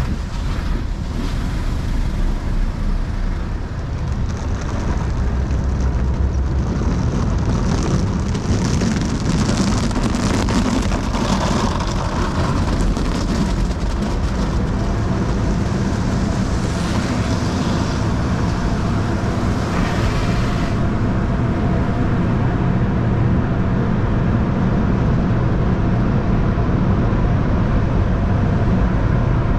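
Automatic tunnel car wash heard from inside a car: a steady low rumble of the wash machinery, with water spray hissing against the body that drops away about two-thirds of the way through.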